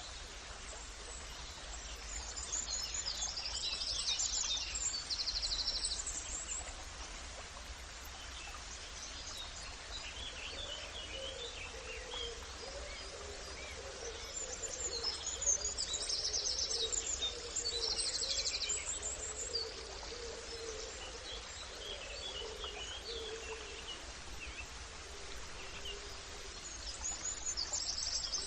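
Songbirds singing over a steady background hiss: a high, rapid trilled phrase comes about every twelve seconds, three times, with scattered chirps between, and a lower wavering call joins through the middle stretch.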